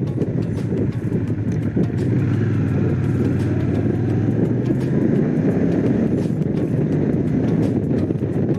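Honda CX500's liquid-cooled V-twin engine running steadily while the motorcycle is ridden at road speed.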